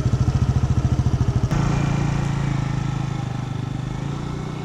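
Moped engine running close by with a rapid, even putter. About a second and a half in it changes to a smoother, slightly higher steady note and then fades gradually as the moped pulls away.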